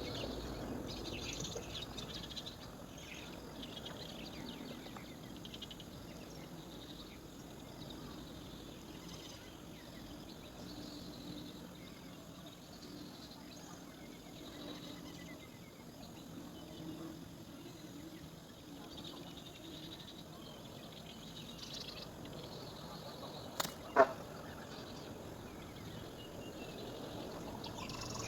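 Faint outdoor ambience with scattered high bird chirps, most noticeable in the first few seconds, and a single sharp click about three-quarters of the way through.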